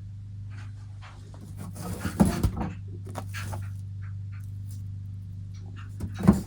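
A steady low hum, with clattering knocks and rattles about two seconds in and again near the end, the sound of items being handled.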